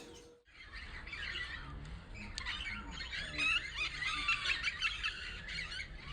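Lovebirds chattering and squawking, a dense run of rapid, high chirping calls that is busiest in the middle.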